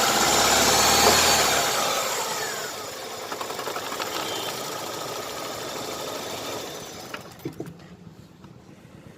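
Chevrolet Optra engine revved, then falling back from the rev to a quieter steady run that fades out about seven seconds in, with a few light clicks near the end. The engine is misfiring: the ignition coil feeding cylinders 2 and 3 gives weak current.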